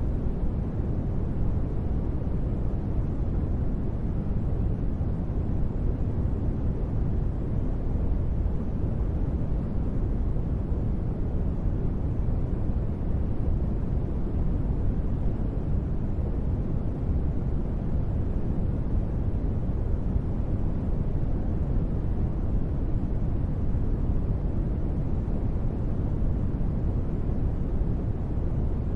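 Steady, deep rushing noise of a space-ambience sleep track: an even hiss weighted heavily to the bass, dull rather than bright, with no changes or events.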